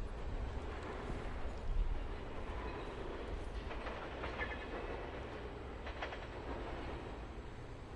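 Rail equipment rolling on track: a steady low rumble with a few metallic clanks and a brief squeal about four seconds in.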